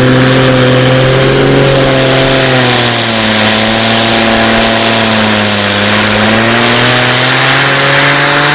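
Turbocharged diesel engine of a competition pulling tractor running loud at high revs, its pitch sagging in the middle and climbing back as it works under load.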